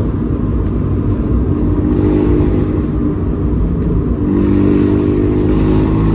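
Abarth 124 Spider's 1.4-litre turbo four-cylinder on the move through a Monza exhaust wired open with a 200-cell sports cat, heard from the open cockpit over road and wind noise. The engine note swells under throttle twice, about a second and a half in and again around four seconds in.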